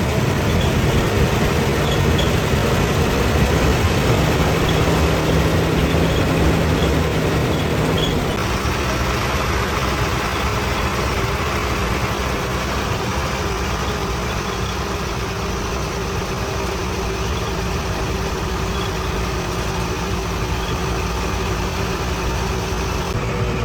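Heavy diesel engine running steadily at a low, even speed, with an abrupt change in its sound about eight seconds in.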